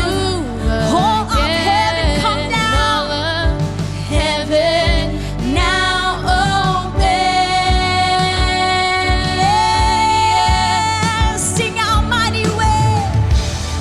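Live worship band music with a steady kick drum while a singer sings wordless runs, holding one long high note for several seconds in the middle.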